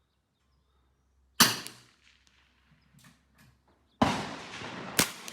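CZ 457 AT-ONE .22 LR rifle firing one shot, a sharp crack about a second and a half in, followed by a few faint clicks. About four seconds in comes a second sudden loud report with a longer tail, then a sharp click near the end.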